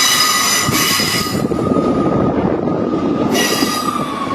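A ScotRail passenger train pulling out of the platform, its wheels rumbling, with a high-pitched steady wheel squeal. The squeal is strong at first, eases, and swells again about three seconds in.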